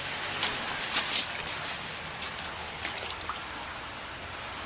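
Steady hiss of water, with a few short sharp ticks, the loudest about a second in.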